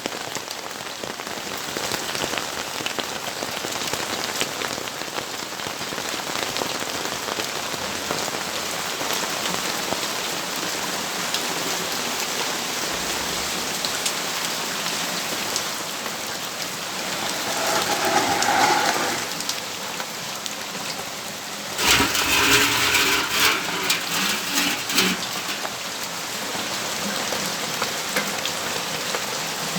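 Steady rainfall, an even hiss of drops on surfaces. It swells briefly about two-thirds of the way through, then a louder, uneven run of sharp bursts lasts a few seconds before the steady rain returns.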